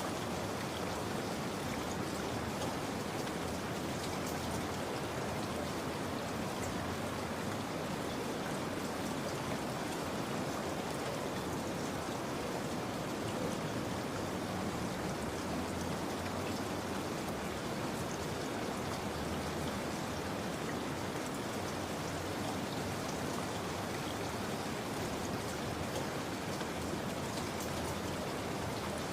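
Steady rain falling, with a dense patter of drops on a hard surface.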